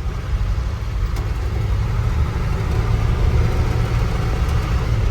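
Old pickup truck's engine running as the truck pulls away, heard from inside the cab, the rumble growing slowly louder as it picks up speed.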